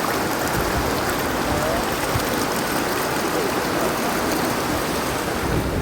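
Tumpak Sewu waterfall: falling water making a steady, even rushing sound.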